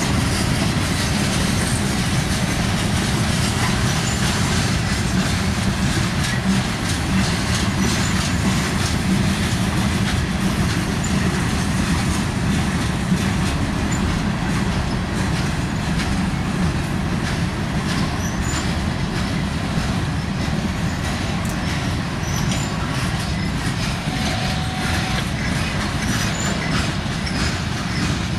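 Freight cars of a long mixed freight train rolling past close by: a steady rumble of steel wheels on the rails, with many small clicks and rattles.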